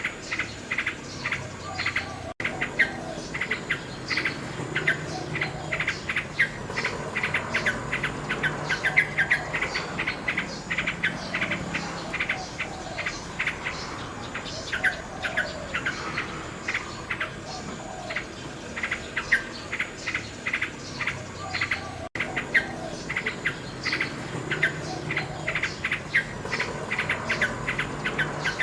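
Common nightingale singing: rapid runs of short repeated chirping and clicking notes, over a steady chirring of insects. The sound cuts out for an instant twice.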